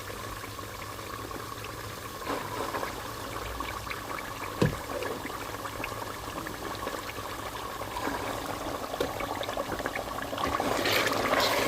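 Tomatoes and pepper poured into a pot of tomato paste frying in hot palm oil, with a steady crackling sizzle. There is a single knock a little before halfway, and the sizzle grows louder near the end.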